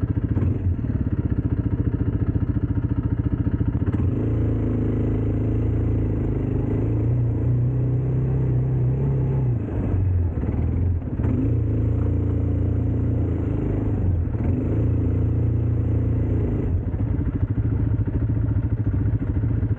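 ATV engine running while riding, its note stepping up about four seconds in and easing off and picking up again a few times as the throttle changes.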